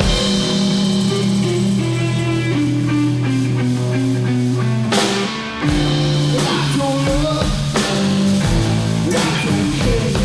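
Live blues-rock band playing an instrumental passage: guitar over a held bass line and drum kit. The sound drops briefly about five seconds in, then the full band comes back in.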